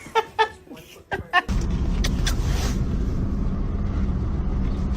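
A few short pitched calls, then a steady low rumble that starts about a second and a half in.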